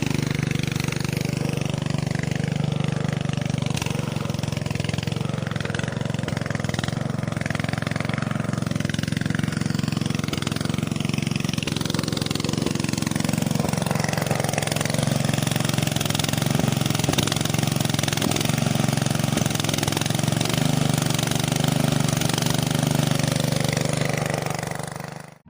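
A small engine running steadily at an even speed, then cutting off suddenly at the very end.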